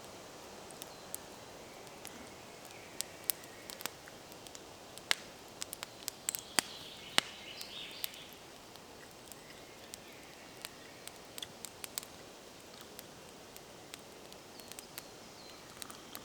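Wood campfire crackling: irregular sharp pops and ticks, thickest a few seconds in, over a steady low hiss.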